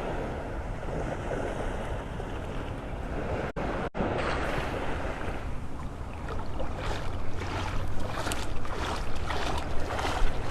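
Gulf surf washing onto the beach, with wind buffeting the microphone; the wash turns splashier in the second half. The sound cuts out twice for an instant just before 4 s.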